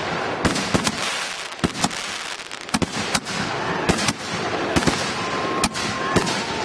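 A chain of fused-together 60-gram firework mortar shells going off in quick succession: about a dozen sharp bangs at uneven intervals over a continuous hiss and crackle.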